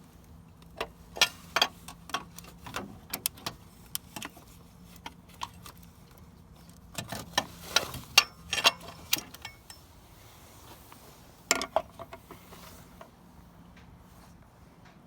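Scattered sharp clicks and clinks, arriving a few at a time in irregular clusters with quiet gaps between. A faint steady low hum runs underneath.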